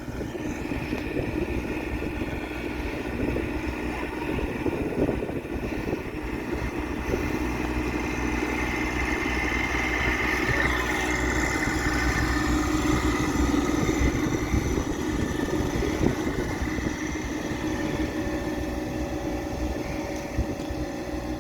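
Tractor engine running steadily, with a high whine over the engine note that is strongest around the middle.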